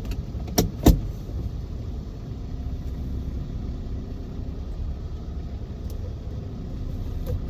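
Car engine running, heard from inside the cabin as a steady low rumble. Two short clicks come in the first second, and a fainter one near the end.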